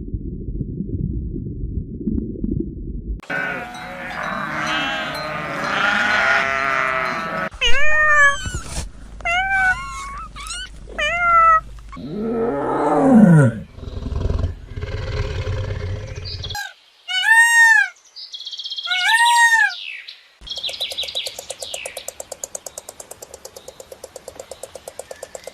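A string of different animal calls, cut one after another: a low rumble, then runs of short arched calls repeated several times, a long falling call, and near the end a fast, even pulsing.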